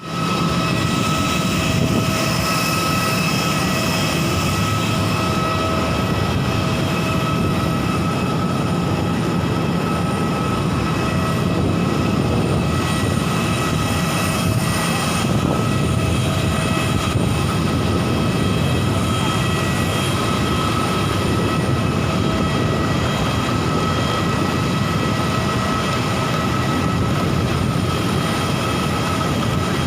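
Airliner engines running steadily: a constant low rumble with a high steady whine over it.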